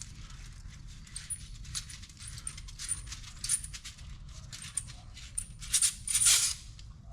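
Small metal parts and tools clinking and rattling as they are handled and sorted through by hand, with a longer, louder scrape about six seconds in.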